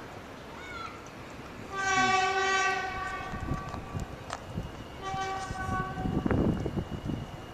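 A horn blows two steady blasts of one note, the first about a second long and the second shorter, over a low rumble with knocks.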